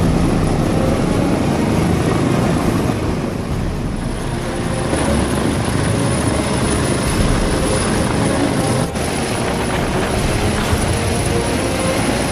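Helicopter running, a steady loud rotor and engine noise, with a brief dip about nine seconds in.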